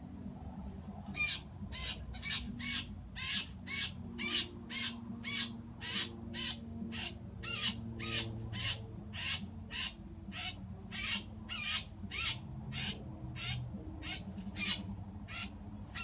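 Blue jay giving harsh distress screams about two a second, starting about a second in: the calls of a jay pinned down and being plucked alive by a hawk.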